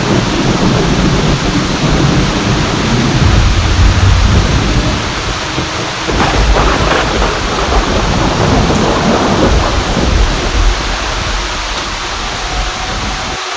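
Heavy rain falling with long rolling thunder rumbling underneath, swelling twice. Near the end the thunder's low rumble cuts off suddenly, leaving the steady hiss of rain.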